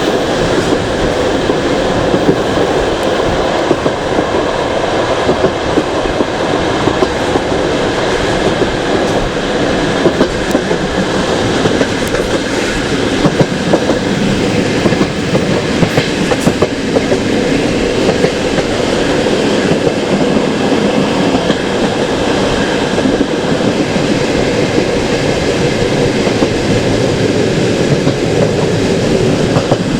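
Passenger train carriage running along the track, heard from inside: a steady rumble with the wheels clicking and knocking over the rail joints.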